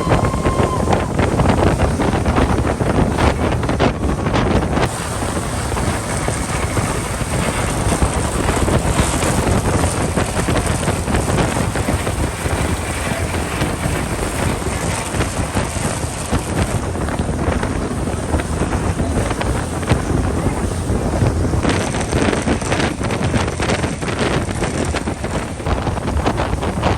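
Fast passenger boat running at speed across open sea: wind rushing and buffeting the microphone over the steady drone of the engines and the hull through the water.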